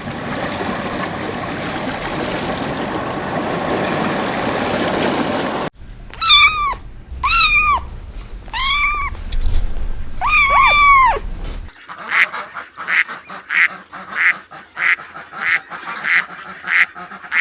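Animal calls in separate clips: a steady rushing noise first, then four pitched calls that rise and fall, about a second and a half apart, then a quick run of short, evenly spaced calls, about two a second.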